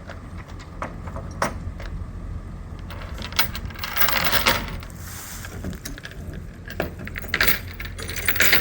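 Loose metal clanking and jangling: scattered sharp clicks and knocks, with two louder rattling stretches about four and seven and a half seconds in, over a low steady rumble.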